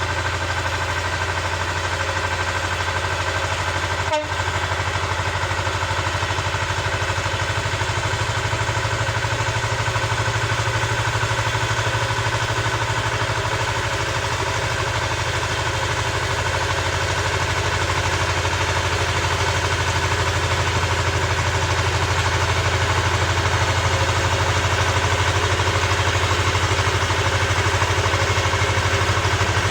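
Small tractor engine running steadily under load as it drives a rotary tiller through the soil, with a brief knock and dip about four seconds in.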